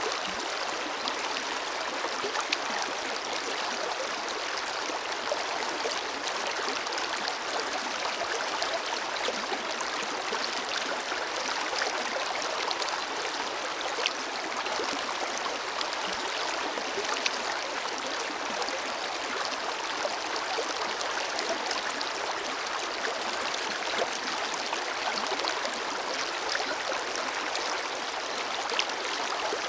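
Forest river flowing steadily, an even rushing and babbling of water with a few brief, sharper splashes.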